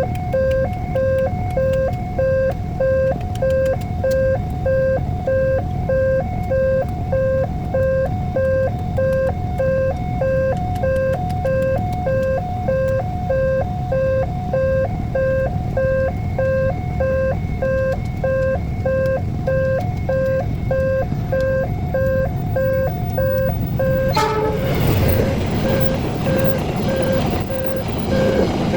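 Level-crossing warning alarm repeating a two-note electronic tone over and over, over a low rumble of waiting traffic. About twenty-four seconds in, the alarm is briefly broken and a louder rushing rumble takes over: a train passing through the crossing.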